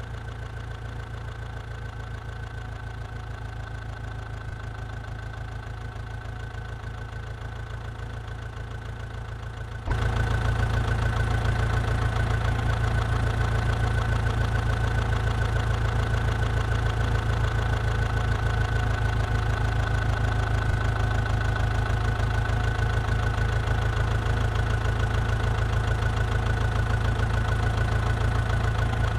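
Massey Ferguson 9500 DI tractor engine running steadily. Its sound abruptly gets much louder about ten seconds in and stays at that level.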